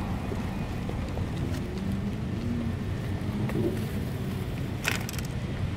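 Steady low outdoor rumble, with a sharp click about five seconds in.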